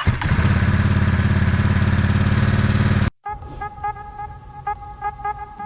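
2021 Ducati Monster's 937 cc V-twin engine running loudly just after starting, then cut off abruptly about three seconds in. Funky hip-hop background music with a steady beat follows.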